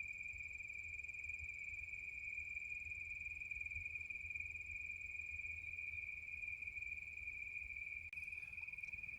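Crickets trilling in a steady, unbroken chorus at one high pitch.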